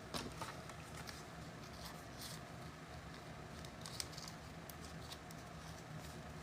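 Faint clicks and soft rustles of trading cards being handled and flipped through, over a steady low hum.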